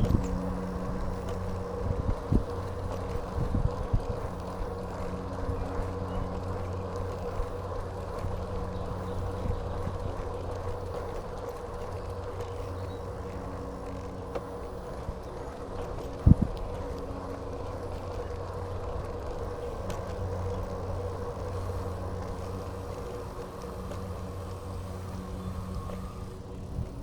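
A steady mechanical hum from a motor or engine, with a few short knocks, the loudest about two-thirds of the way through.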